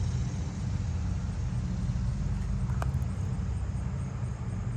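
A motor vehicle's engine running, a steady low rumble. There is one short click about three seconds in.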